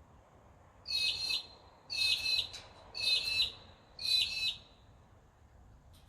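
A bird calling four times, about a second apart, each call about half a second long.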